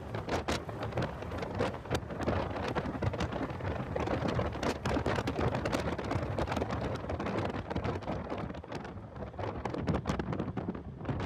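Wind buffeting and crackling on the camera's microphone in a car at track speed, with a dense run of sharp crackles over a rumble that masks the engine.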